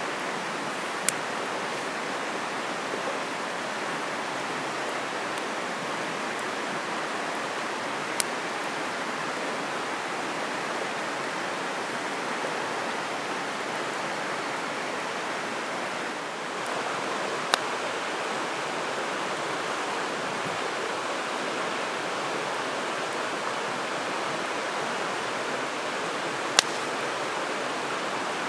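Steady rush of a flowing river or stream, broken by four single sharp snaps spread several seconds apart.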